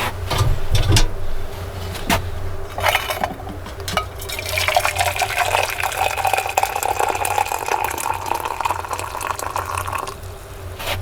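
A few knocks of handling, then liquid is poured steadily into a vessel for about five seconds, starting about four seconds in.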